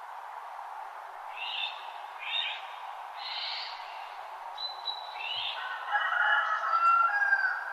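Birds calling in a dawn chorus over a steady background hiss. Several short high calls come in the first half, then a louder, lower warbling song near the end.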